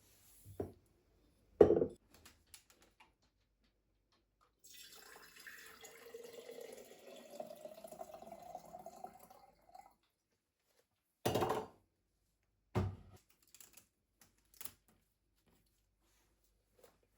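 Water running from a tap into a vessel for about five seconds, its pitch rising as the vessel fills. A few short knocks come before and after it.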